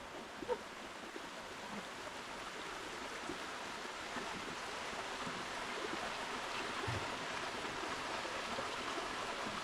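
Steady rush of water from the Crabtree Falls cascade, growing slightly louder, with a few faint knocks.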